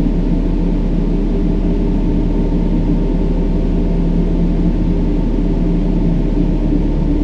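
Steady brown noise: a deep, even hiss weighted to the low end, with almost nothing in the highs. A few faint held low tones run through it unchanged.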